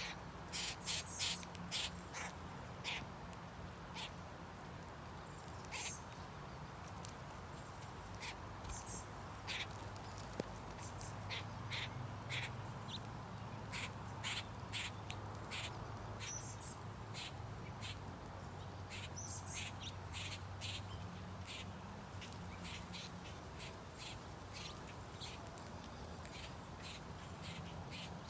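Birds at a feeder calling: many short, sharp calls, some in quick runs, scattered throughout over a steady low hum.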